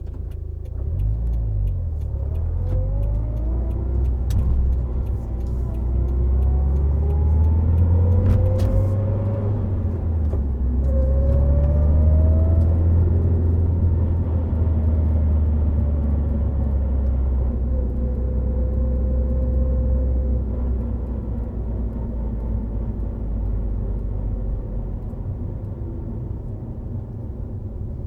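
Subaru Impreza WRX STI Spec C's turbocharged flat-four with an A-RM aftermarket exhaust, under way at expressway speed: the engine note rises in several separate pulls through the gears, then holds steady at a cruise and eases off near the end, over a steady low rumble of road and tyre noise.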